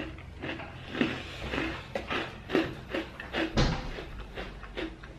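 Crunchy chewing of a ginger biscuit, close up, about two crunches a second, with one louder thump about three and a half seconds in.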